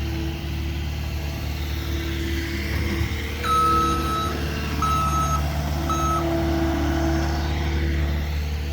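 Heavy equipment engine running with a steady drone while a reversing alarm beeps three times partway through, the first beep longer than the other two.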